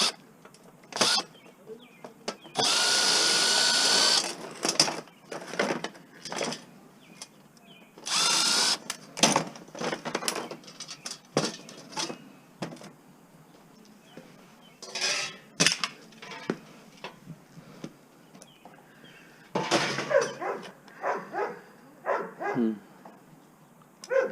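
Power drill backing out screws in several short runs of about one to one and a half seconds, each a steady motor whine, one of them rising in pitch as it spins up. Between runs there are clicks and clatter of metal parts being handled.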